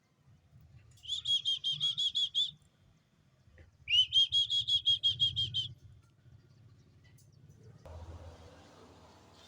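A young jongkangan bird chirping in two quick runs of about nine high, evenly spaced chirps each, with a faint rustle near the end.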